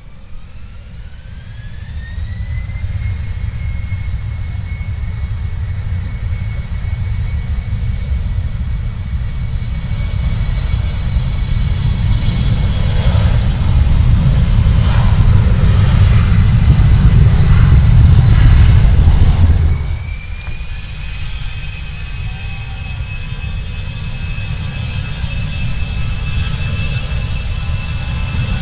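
Jet aircraft engines running: a whine rises over the first few seconds and then holds steady over a low rumble that builds to its loudest about two-thirds of the way through and drops off suddenly. A second, slightly higher whine then rises and holds.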